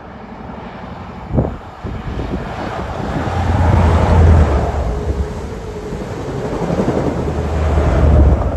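A diesel high-speed train (InterCity 125) passing close below. The leading power car's diesel engine rises to a loud low hum about three seconds in, the coaches follow with wheel-on-rail running noise, and the engine hum swells again near the end as the rear power car passes.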